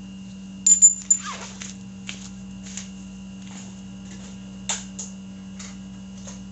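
Light clicks and small knocks of hand-handling parts and a small bottle, with a brief high squeak that falls in pitch about a second in, over a steady low workshop hum.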